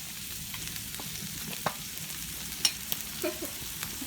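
Food sizzling steadily on a hot tabletop grill, with a few sharp taps of utensils, the loudest about two-thirds of the way through.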